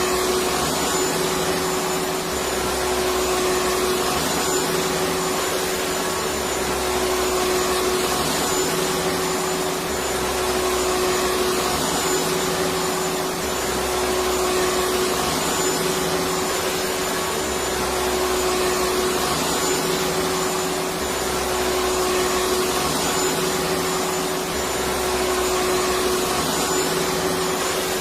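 Electric vacuum cleaner running steadily: a constant rushing hiss of air with a steady motor hum.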